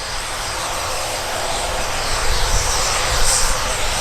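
Military jet engine noise, a dense, steady roar that grows louder.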